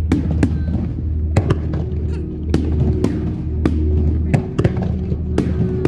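Aerial firework shells bursting in a rapid, irregular series of sharp bangs, about ten in six seconds, over a steady low rumble and background music.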